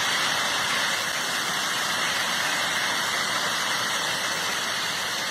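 Steady rushing noise of a rockfall, a stream of stones pouring down a mountainside, heard as an even rush with no separate knocks.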